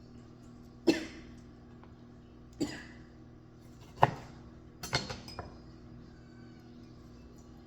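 Four sharp clinks and knocks of kitchen dishes and utensils, the last a short clatter of several quick hits, over a faint steady hum.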